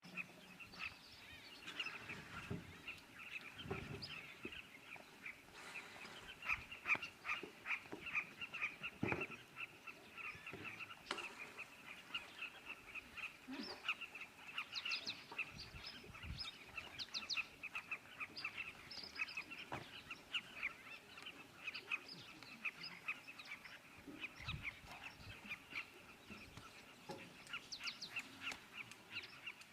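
A chorus of birds calling over one another in quick, rapid-fire notes that never stop. There are a few soft low thumps now and then.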